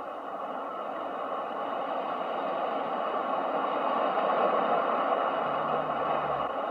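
Ocean surf: a continuous rush of breaking waves that swells louder toward the middle and eases slightly near the end, with a faint low hum briefly underneath near the end.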